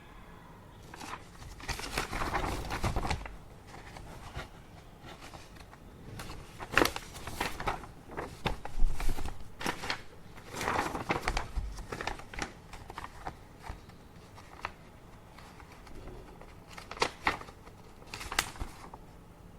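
Paper being handled: sheets rustling and crinkling in irregular bursts, each about a second long.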